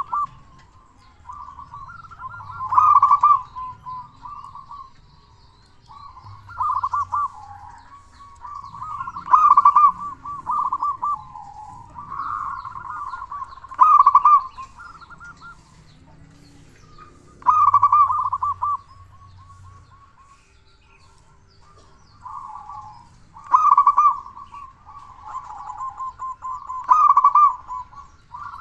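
Zebra dove (perkutut) cooing: about eight loud phrases of rapid, rolling pulsed coos, one every few seconds, with softer calls between them.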